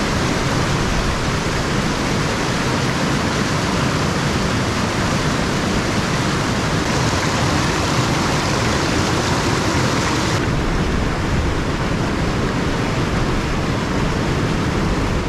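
A small mountain stream running with a steady rush of water.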